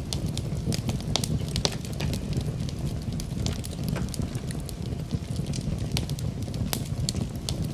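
Wood fire in a fireplace burning steadily, with many irregular sharp crackles and pops over a low, even rumble of flame.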